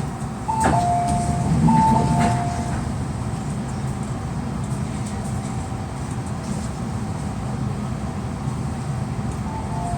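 Interior noise of an MTR M-Train car, a steady hum and rumble. A two-tone electronic chime, a higher note dropping to a lower one, sounds twice near the start with a click each time, and starts again near the end.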